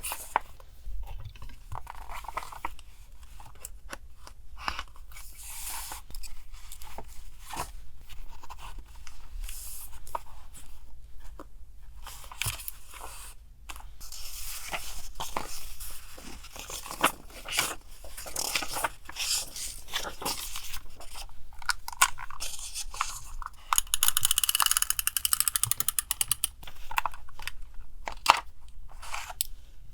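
Paper craft materials being handled on a desk: rustling, crinkling and scraping of paper with scattered light taps and clicks. Near the end comes a longer stretch of dense crinkling or tearing. A faint steady low hum runs underneath.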